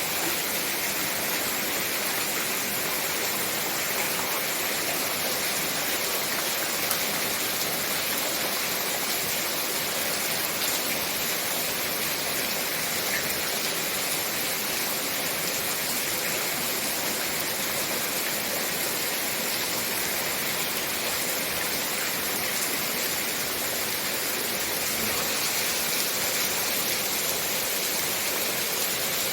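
Heavy rain falling, a steady even hiss of water with no separate splashes standing out.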